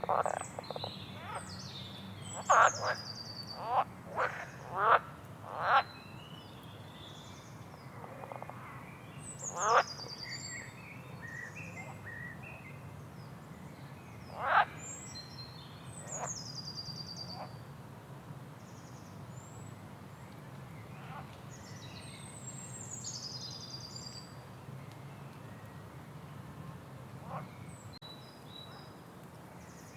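Frogs croaking in loud single calls, several close together in the first few seconds, then one about ten seconds in and another near fifteen, while songbirds sing high, quick descending chirping phrases throughout.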